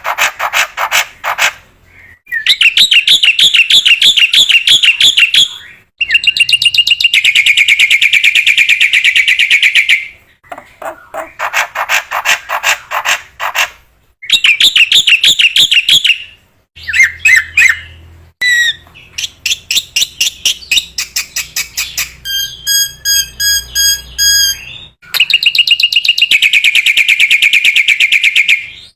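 Black-winged myna (jalak putih) singing loudly in phrases a few seconds long of very rapid, chattering trilled notes, with short pauses between them and a run of clear whistled notes about two-thirds of the way through.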